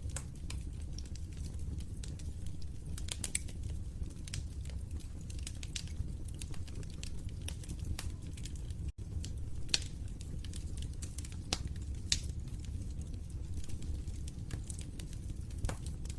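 Wood fire crackling: irregular sharp pops and snaps over a steady low rumble of burning. The sound drops out for an instant about nine seconds in.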